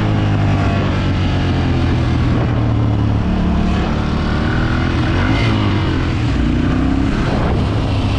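Motorcycle engine running steadily while riding, heard from the rider's helmet camera with wind rushing over the microphone. The engine note shifts about three seconds in and bends up and down near the middle.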